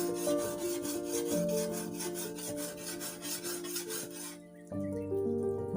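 Hand file scraping along the steel edge of a brush cutter blade in quick, regular strokes, sharpening it; the strokes stop a little over four seconds in.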